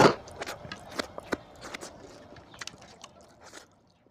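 Close-miked mouth sounds of a man chewing a mouthful of rice and mutton curry: wet smacks and clicks at irregular intervals, thinning out and stopping near the end.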